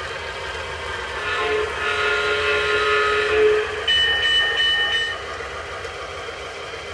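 Toy F7 diesel locomotive's electronic horn sounding for about two seconds over the steady running noise of the model train on its track, followed by a shorter, higher, pulsing sound-effect tone about four seconds in.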